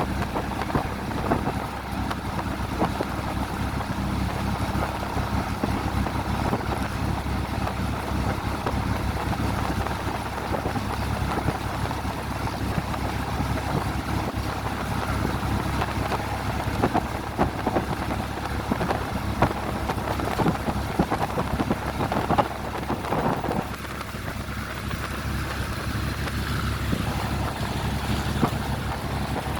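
Train running, a steady low rumble with constant rattling and knocking throughout.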